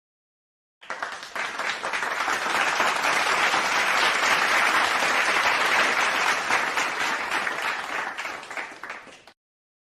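Crowd applause sound effect: dense clapping that starts suddenly about a second in, grows louder, then fades and cuts off abruptly near the end.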